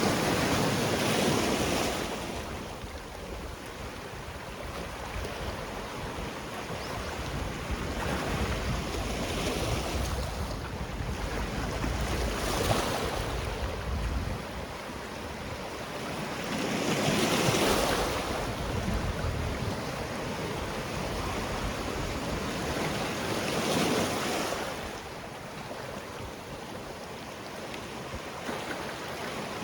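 Sea waves washing onto a rocky shore in a steady wash, with swells breaking in surges a few seconds apart, the largest about a third of the way in and just past the middle. Some wind on the microphone.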